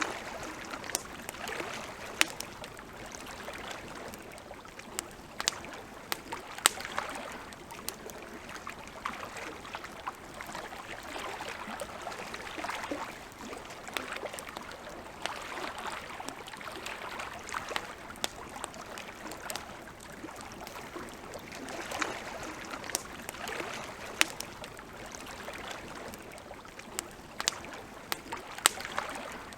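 Wood campfire crackling, with sharp pops scattered irregularly, several some seconds, over a steady hiss.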